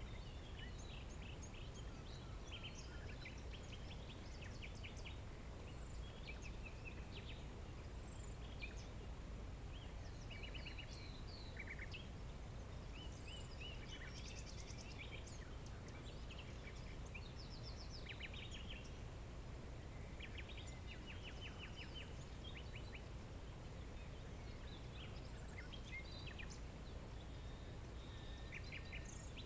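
Several songbirds singing and calling, a busy mix of short chirps and rapid trills, over a steady low rumble of outdoor background noise.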